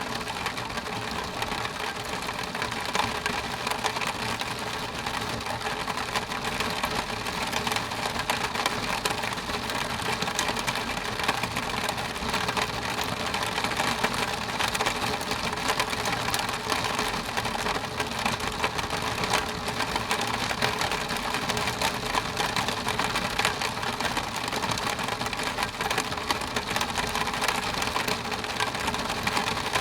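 Steady rain on window glass: a dense, fast ticking of drops with no let-up.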